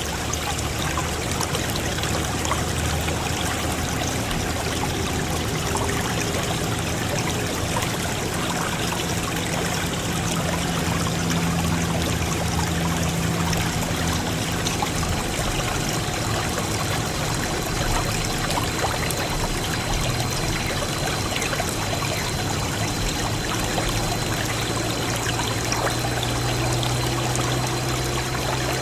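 Water pouring steadily from a mini water pump's outlet, an even unbroken gush with a faint low hum beneath it.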